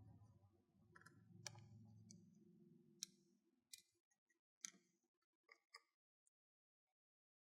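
Near silence with a few faint, sharp clicks and taps of small hard objects being handled, over a faint low hum that fades out about four seconds in.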